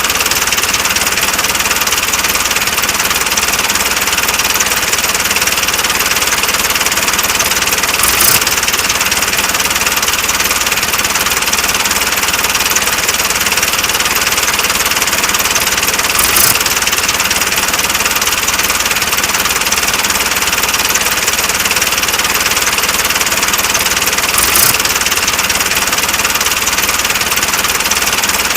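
Steady engine running sound for a miniature model tractor, even throughout, with a short click repeating about every eight seconds.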